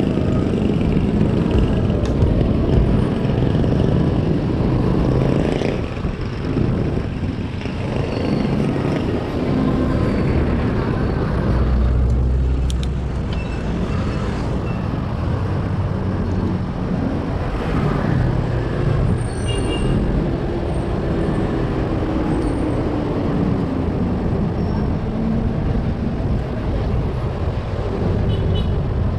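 Steady city road traffic heard from a bicycle: cars, buses and other motor vehicles running and passing, with a constant low rumble. Partway through, one passing engine's tone glides up and down.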